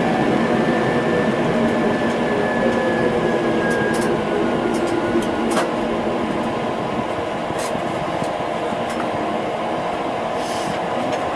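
Tram running, heard from inside the car: a steady rumble with a faint motor whine that falls slightly in pitch over the first few seconds, and a few scattered light clicks.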